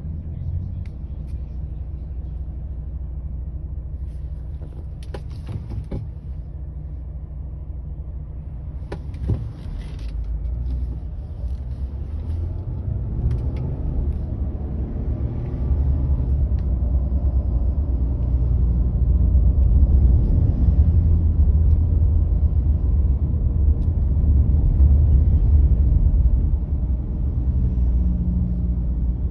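Low, steady rumble of a car driving along the road, growing louder from about halfway through, with a couple of brief clicks early on.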